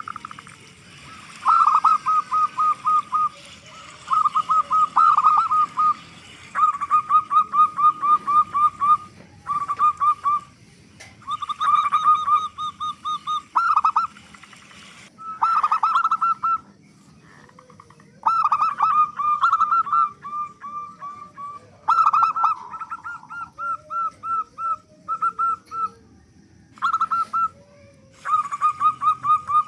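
Zebra dove (perkutut) cooing in repeated phrases of rapid staccato notes, each phrase a second or two long with short pauses between. A fainter, lower wavering call joins in the second half.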